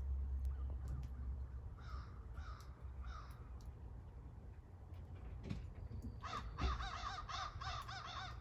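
Crows cawing outdoors: three caws about two seconds in, then a quick run of caws, about three a second, near the end.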